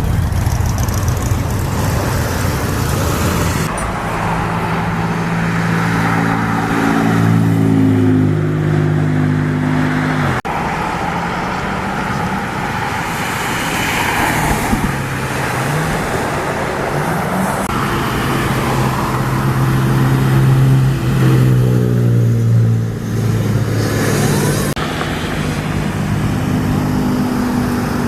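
Sports car engines running and revving, their pitch rising and falling as they accelerate, with several abrupt changes from one engine sound to another.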